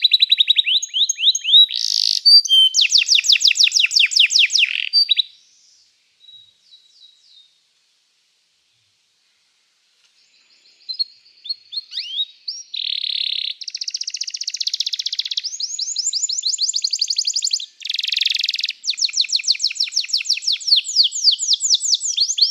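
Domestic canary singing in fast rolling trills and rapid repeated high notes. The song breaks off for about five seconds midway, with only a few faint notes, then resumes and keeps going.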